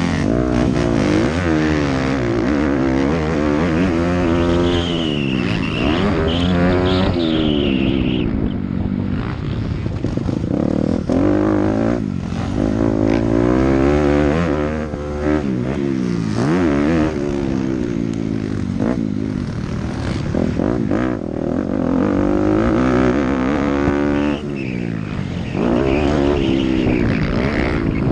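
Dirt bike engine revving up and falling back again and again as it is ridden, its pitch climbing and dropping every second or two.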